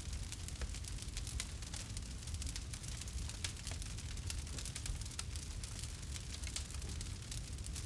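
Campfire crackling: frequent small, sharp pops and snaps at irregular spacing over a steady low rumble and hiss of burning wood.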